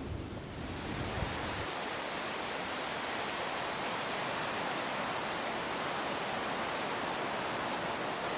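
Heavy rain falling, a steady even hiss that swells about half a second in. A low rumble dies away in the first two seconds.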